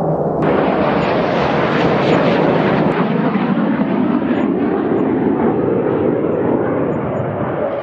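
Loud jet roar from a fighter jet. Its hissing upper range cuts in suddenly about half a second in, then dulls gradually as the jet draws away.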